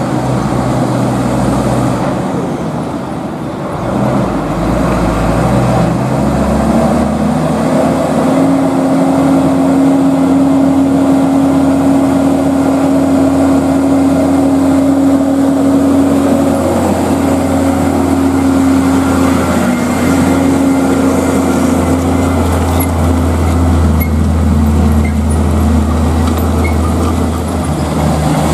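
Diesel engine of a heavily loaded tronton (three-axle) truck running under load. Its pitch climbs about five seconds in, then holds steady at high revs.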